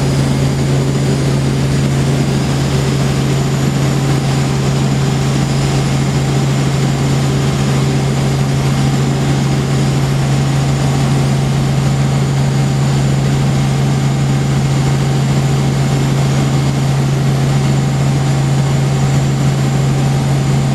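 Helicopter in flight heard from inside the cabin: a loud, steady low drone from the rotor and engine over an even hiss.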